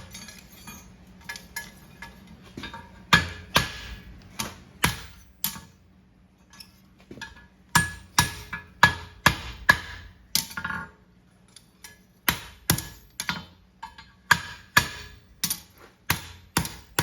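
Hammer striking a hot steel horseshoe on an anvil, sharp ringing metal blows about two a second in runs with short pauses between, as the toe clip is shaped over the anvil's horn.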